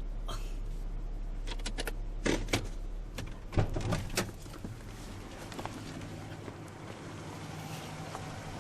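Clicks and knocks from a car door and car body as a black bear works at the car, with a heavy thump about three and a half seconds in, the loudest sound.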